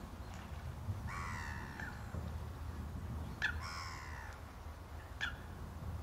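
A bird gives two calls about two seconds apart, each lasting about a second and falling in pitch. A few sharp clicks fall among them, over a steady low rumble.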